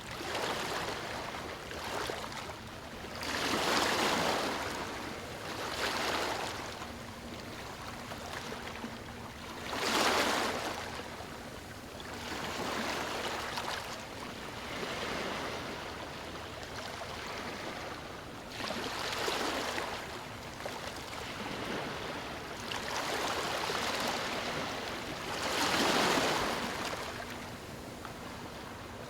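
Small waves washing onto a stony shore, rising in swells every few seconds, the loudest at about 4, 10 and 26 seconds in, over a continuous hiss of water running back through the stones.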